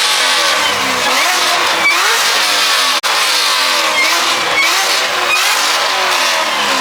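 Car engine being revved in repeated blips, its pitch rising and falling again and again, loud.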